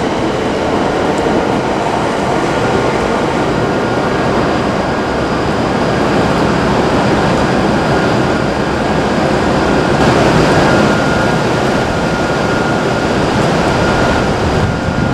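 An E7/W7-series Hokuriku Shinkansen train running past, a loud, steady rush of noise with a thin, steady high tone, swelling a little about two-thirds of the way through.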